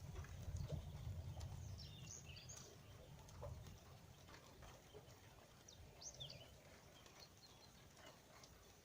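Faint outdoor ambience. A low wind rumble on the microphone fades after the first few seconds. A few faint bird chirps come about two and six seconds in, with scattered light ticks.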